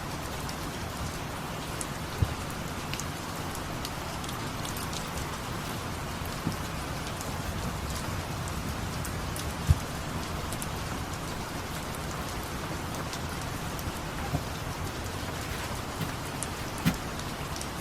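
Steady rain falling, an even hiss of drops with a few sharper taps standing out now and then.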